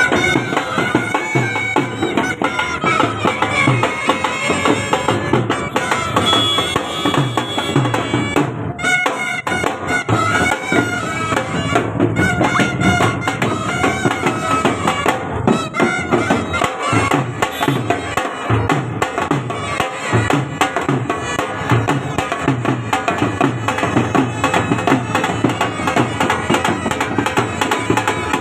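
Traditional Haryanvi band music: a reedy wind-instrument melody played over steady drumming.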